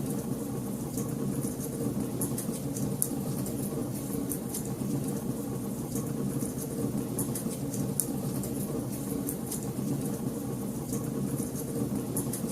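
Wood fire burning in a fireplace: many small, sharp crackles and pops at irregular intervals over a steady low rumble.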